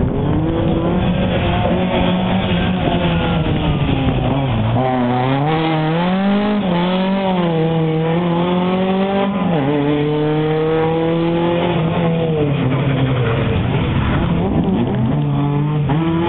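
Ford Escort Mk2 rally car's engine revving hard. Its pitch climbs and falls with gear changes and corners, with sharp drops about four and a half, nine and a half and fourteen and a half seconds in.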